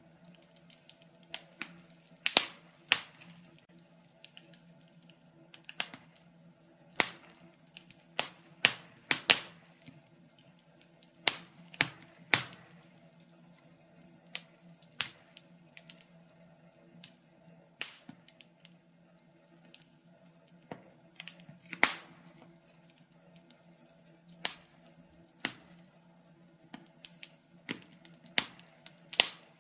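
Wood fire crackling in a fireplace: irregular sharp pops and snaps, some single and some in quick clusters, over a faint steady low hum.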